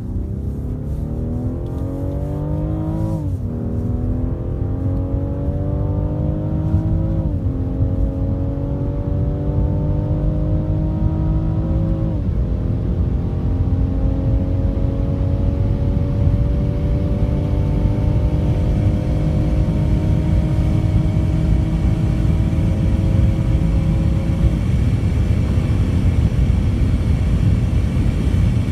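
Rolls-Royce Wraith's twin-turbo V12 under full acceleration: the engine note climbs steadily in pitch and drops back with each automatic upshift, four shifts at roughly 3, 7, 12 and 25 seconds in, the gaps between them lengthening as the car gathers speed. Road and wind noise grow louder throughout.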